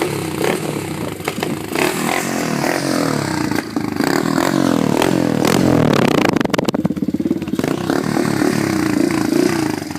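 125cc Pit Pro pit bike engine running loud through a bigger exhaust, revved up and down repeatedly.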